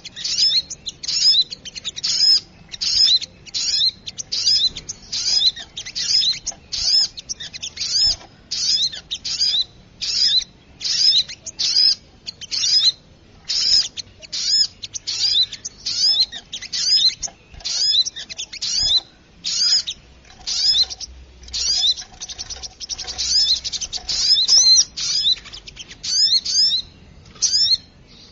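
A small songbird's sharp, high chirping calls, repeated about twice a second in a lively run, played as a bird-lure recording for small birds. The calls come denser for a few seconds past the middle.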